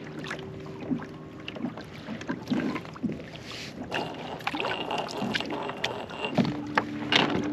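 Scattered small knocks and handling noise on a kayak on the water, with water sounds around the hull.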